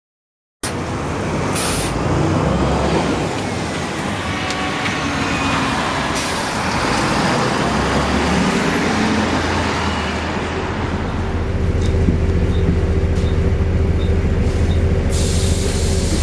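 Volvo B7RLE single-deck bus running, its diesel engine giving a steady low rumble with thin whining tones over it. A steady whine becomes prominent from about ten seconds in. The sound cuts in suddenly about half a second in.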